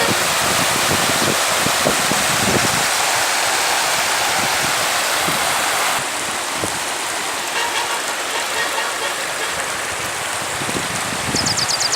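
Steady rushing water, an even hiss, with low gusts of wind on the microphone in the first few seconds. The sound shifts slightly quieter about halfway through, and a quick run of high ticks sounds near the end.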